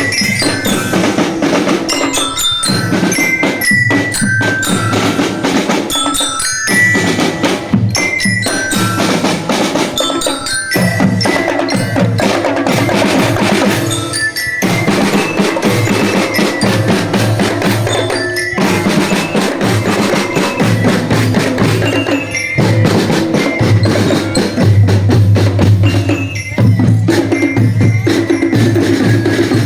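Indonesian marching drum band playing: a bright marching-glockenspiel (bell lyra) melody over snare and bass drums. The bass drum grows stronger near the end.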